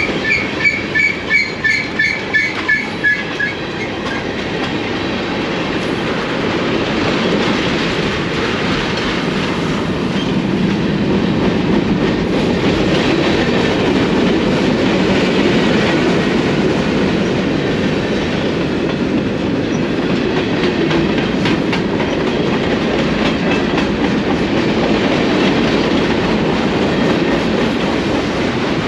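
A train rolling past with a steady rumble of wheels on rail and faint regular clicks of the wheels over the rail joints. For the first few seconds a ringing tone pulses about three times a second, then fades out.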